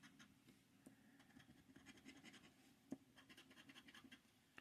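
Faint scratching of a scratch-off lottery ticket, the coating being rubbed off in short quick strokes, with one sharper tick about three seconds in.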